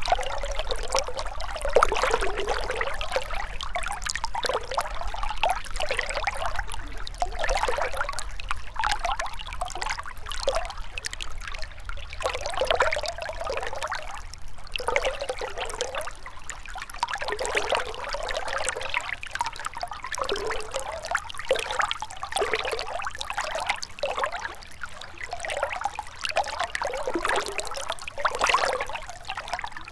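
Shallow river water trickling and gurgling steadily over stones, with constant small splashes and bubbling.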